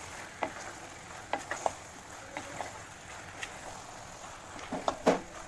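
A spoon stirring chicken pieces through thick masala in a frying pan, with scattered knocks of the spoon against the pan; the loudest comes about five seconds in.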